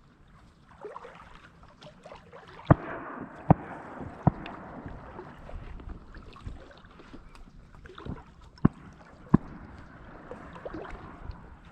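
Water sloshing and swishing with movement through it, broken by a few short, sharp knocks: three close together about a third of the way in, then two more later on.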